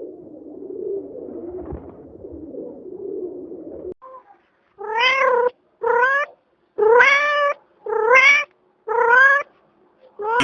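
A domestic cat meowing five times in a row, each meow short and rising in pitch. The meows follow a few seconds of a low, rough sound.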